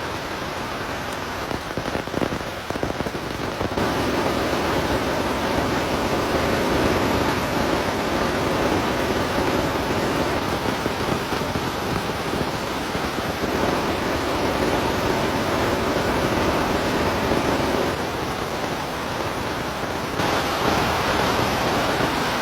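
Heavy rain falling steadily, a dense hiss of drops, getting louder about four seconds in.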